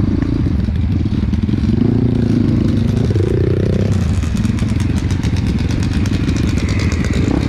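Trail dirt bike engine running as it rides, its revs rising and falling briefly about two to three seconds in, with a fast, even ticking rattle through the second half.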